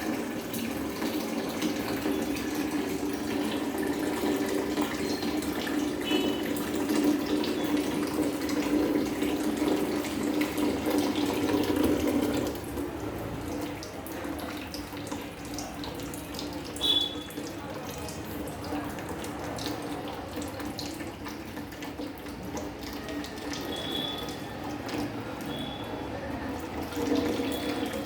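Water running steadily from a tap into a sink; the flow sound drops to a quieter level about twelve seconds in.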